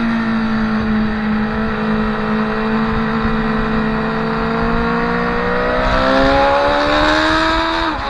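Motorcycle engine at high revs, heard onboard with wind rush. The engine note holds steady, rises through the last third, then drops sharply near the end.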